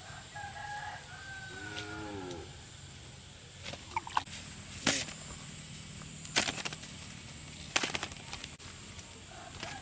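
A rooster crowing once, then four or five sharp knocks a second or so apart.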